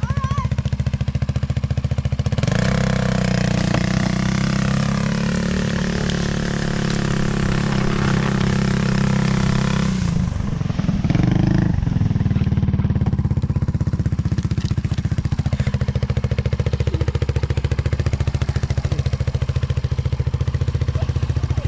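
Polaris RZR side-by-side's engine running as it drives, louder and fuller for several seconds from about two seconds in, then changing around ten seconds in and settling to a steadier run.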